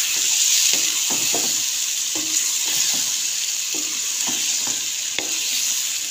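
Potato pieces frying in a spiced masala in a non-stick pan, sizzling steadily, while a spatula stirs them with repeated scrapes and taps against the pan.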